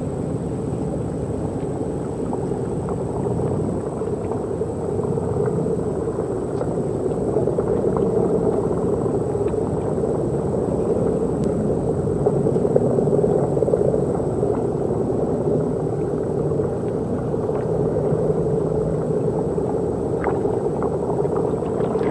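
Steady mechanical drone of an underwater research vehicle's machinery as it moves toward the canyon wall, growing slightly louder partway through.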